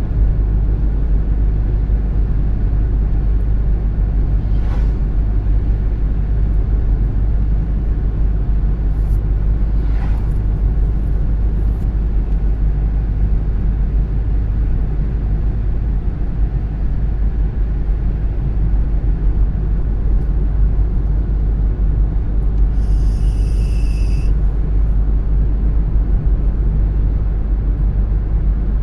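Steady low rumble of a car driving on the road, engine and road noise, with a few faint ticks and a short high-pitched sound about 23 seconds in.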